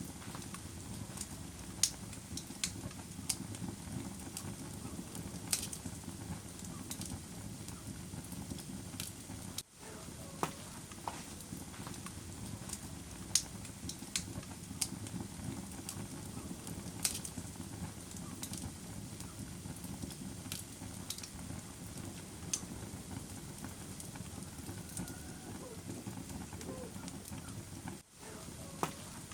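Wood fire burning in a fireplace, with irregular sharp crackles and pops over a steady low rush of flame. The sound cuts out for a split second twice.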